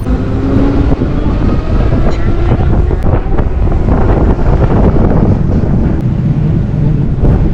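Wind buffeting the microphone while riding an electric motorcycle at speed: a loud, fluttering rumble of wind and road noise with no engine sound above it.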